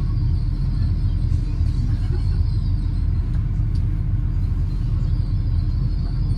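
Steady low rumble of a Great Western Railway Class 800 train.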